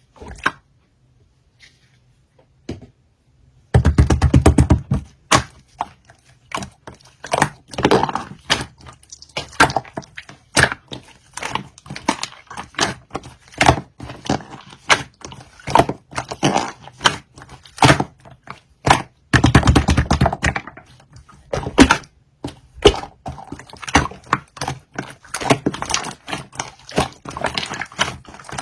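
Purple pearl slime being squeezed and pressed by hand, giving a dense, irregular run of sticky clicks and pops. It begins about four seconds in, after a single click.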